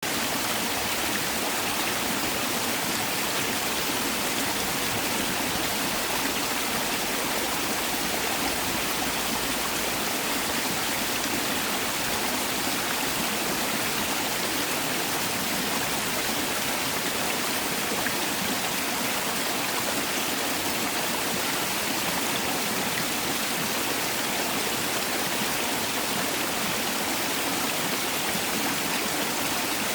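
Mountain valley stream rushing steadily over rocks, a constant even wash of water.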